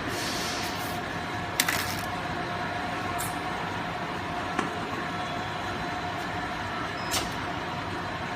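Stretch film transfer (rewinding) machine running steadily: a constant mechanical hum with a thin steady whine, and three sharp clicks spread through it.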